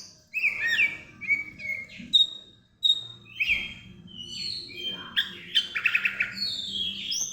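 Oriental magpie-robin (kacer) singing: a run of varied clear whistled notes and slurred up-and-down glides, with a fast rattling phrase about five seconds in.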